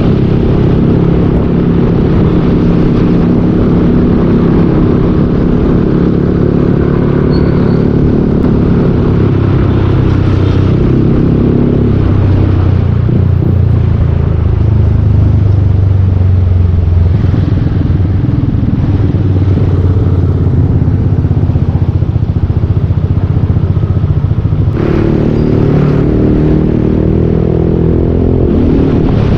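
Yamaha Aerox 155 scooter's single-cylinder engine running through a full Yoshimura exhaust while riding. The note drops lower a little before halfway, then comes back up with more throttle a few seconds before the end.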